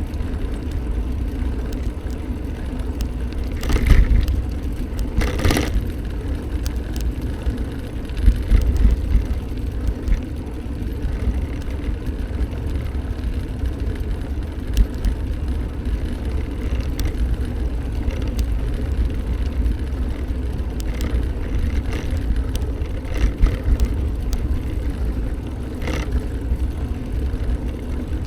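Steady low rumble of riding a bike along a road, with wind on the microphone; brief louder bursts of noise about four and five and a half seconds in.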